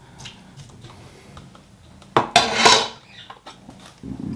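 Dishes and cutlery clinking, with a louder clatter about two seconds in.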